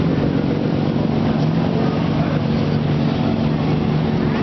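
Car engine exhaust through a loud aftermarket muffler, holding a steady low drone without revving.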